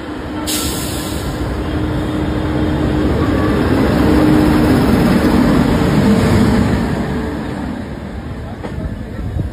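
A WAP-5 electric locomotive and its passenger coaches passing close by on the next track: a rumble of wheels on rail with a steady hum, swelling to its loudest about four to six seconds in, then easing. A sudden hiss comes about half a second in, as the locomotive goes by.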